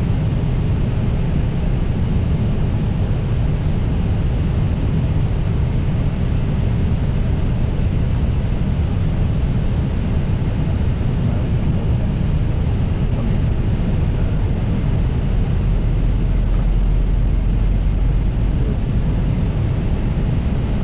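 Steady flight-deck noise of an Airbus A320 in flight: airflow and engine sound as an even, low rumble, with the deepest part swelling slightly about three quarters of the way through.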